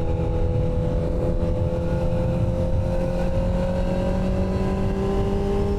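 Vehicle engine pulling under steady acceleration, its note rising slowly, then dipping sharply at the very end, over heavy road and wind rumble.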